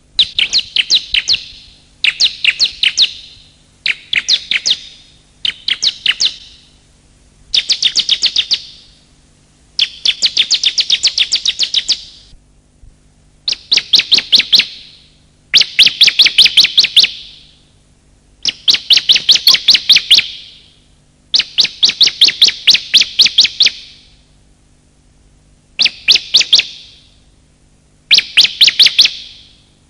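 Bar-winged prinia (ciblek) calling: repeated bursts of fast, high chipping notes, each burst one to two seconds long, with short pauses between.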